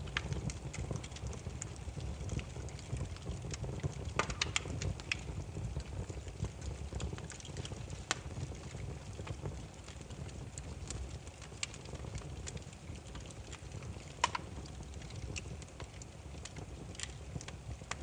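Firewood burning, crackling with scattered sharp pops and snaps over a low steady rumble, with louder snaps about four and fourteen seconds in.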